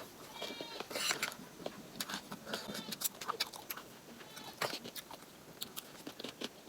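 Close-miked eating sounds: wet chewing and mouth clicks with small crackles while momo and chatpate are being eaten, scattered and irregular throughout.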